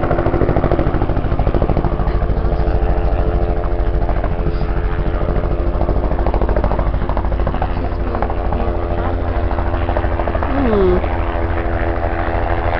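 Helicopter coming in to land, its rotor beating rapidly and steadily over a constant engine hum.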